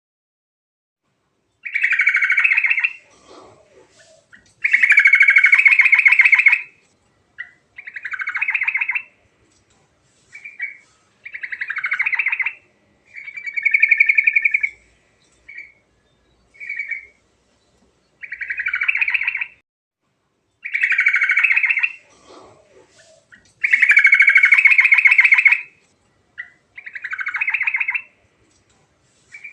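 Sooty-headed bulbul (trucuk) singing in full voice: a long run of short, rapid rattling phrases, each a second or two long, with brief chirps and pauses between them.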